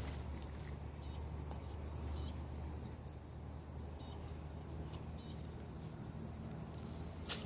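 Birds chirping faintly in short, scattered calls over a steady low rumble, with one sharp click near the end.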